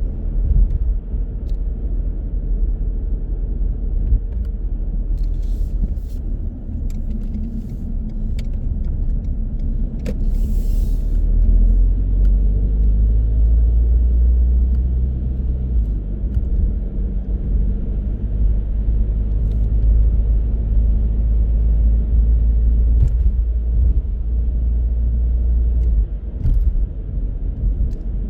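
A car driving along, a steady low rumble of engine and road noise that swells a little about ten seconds in. A few light clicks and a short hiss come in the middle.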